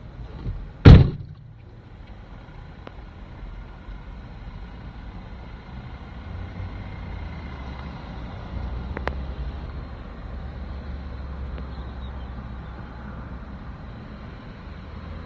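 A car door slams shut about a second in, then the car's engine runs steadily with a low rumble.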